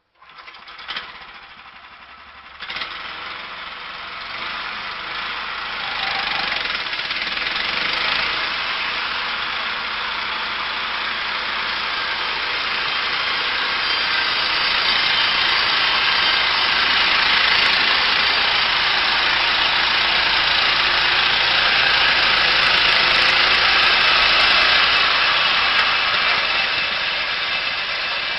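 An engine-driven machine starting up, with a couple of sharp knocks in the first few seconds, then running steadily and growing louder over the first several seconds.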